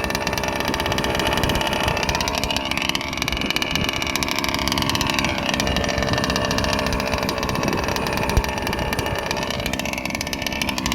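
Small 31.8cc Zenoah G320RC two-stroke engine with an ESP race-ported top end, running in a large-scale RC buggy. Its pitch rises and falls a few times as the throttle is worked.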